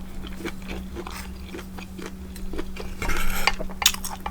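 A person chewing jambalaya and cornbread, with small clicks of a fork against the dish; the chewing grows louder about three seconds in.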